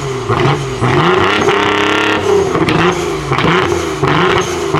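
Car engine revved again and again, pitch climbing and dropping in quick throttle blips, held high once for about a second near the middle.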